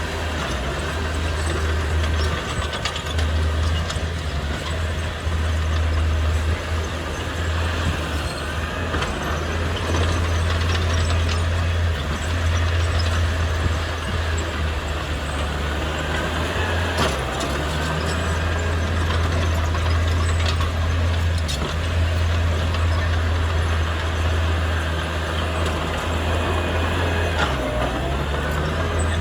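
Heavy diesel engine of earthmoving machinery running steadily under load, a deep constant hum with faint high squeaks and brief shifts in engine note now and then.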